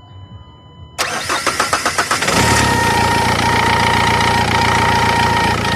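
Dacia Logan engine cranked by the starter in even strokes for over a second before it catches, then idling steadily with a thin high whine over it that stops near the end. The slow catch is the delayed-start fault being diagnosed, shown with a low fuel rail pressure code (P0087).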